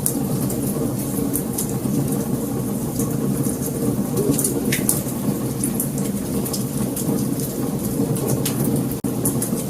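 Wood fire burning: a steady low rumble of flames with scattered sharp crackles and pops. The sound cuts out for an instant near the end.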